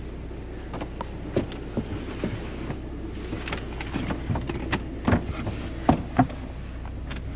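Wooden cabin panels being handled and packed away: scattered knocks and clunks, with the loudest thumps about five and six seconds in, over a steady low engine hum.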